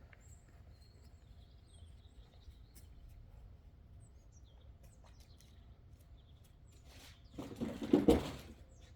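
Faint birds chirping over a quiet outdoor background, then about eight seconds in a single loud axe blow into wood, a short build-up ending in a sharp strike.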